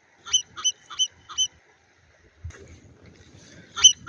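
Marmot alarm calls: a run of four short, sharp, high-pitched calls in quick succession, then a second run starting near the end, the warning given when people approach their burrows.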